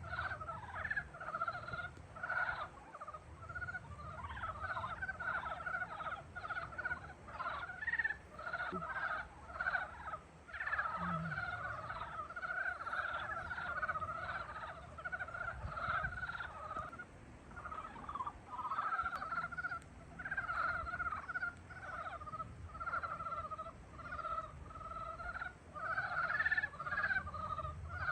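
A chorus of many frogs calling in spring, dense overlapping pulsed croaks that never stop, swelling and easing in waves.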